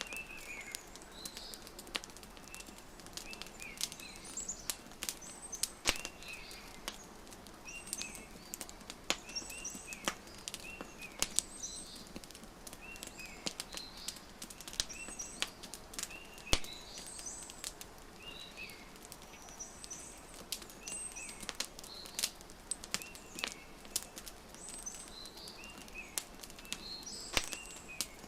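Wood fire crackling, with sharp irregular pops, over small birds chirping in short repeated phrases.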